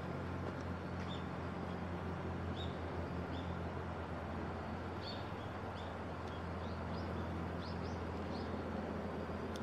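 Small birds calling in short, high chirps, one or two a second, over a steady low hum.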